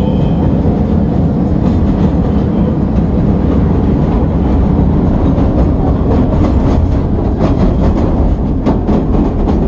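A CTA elevated rapid-transit train running, heard from inside the moving car: a steady low rumble, with the wheels clacking over rail joints, most often in the second half.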